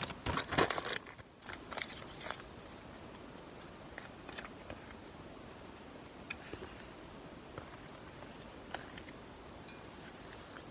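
A food pouch and its flameless heater bag crackling and rustling as they are handled and opened, in a few short bursts over the first couple of seconds. Then only a few faint clicks over a steady low hiss.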